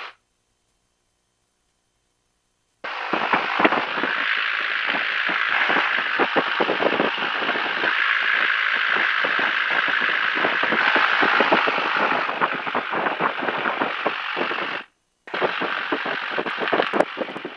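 Cessna 172 cabin noise, engine and propeller rush, picked up by a headset microphone and heard through the intercom. It cuts in suddenly about three seconds in as the voice-activated squelch opens, drops out for a moment near the end, then opens again.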